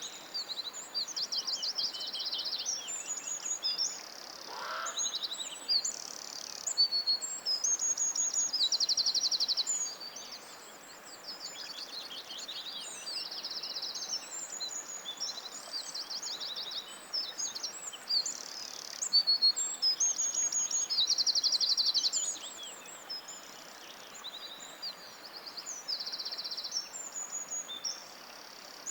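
Songbirds singing: high chirps and fast, rapidly repeated trill phrases from more than one bird. The longest, loudest trills come about eight to ten seconds in and again around twenty seconds, over a steady background hiss.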